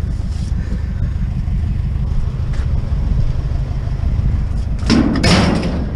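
Steady low rumble of a vehicle engine running, with a short noisy clatter about five seconds in.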